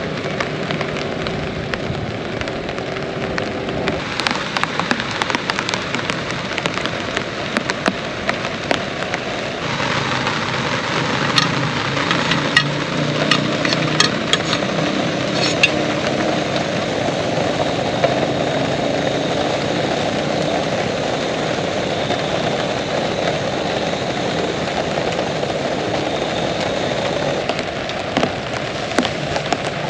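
Heavy rain pouring steadily, with a run of sharp drop hits on a surface between about 11 and 16 seconds in, over a low steady hum in the first half.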